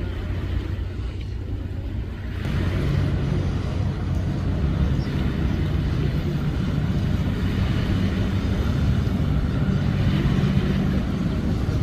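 A river launch's engine running steadily. About two and a half seconds in, it gets louder and takes on a higher steady note, as if the engine is being throttled up.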